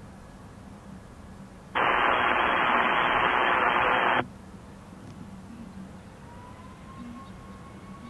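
Air traffic control radio channel: a burst of static hiss lasting about two and a half seconds that starts and stops abruptly, an open transmission with no voice on it.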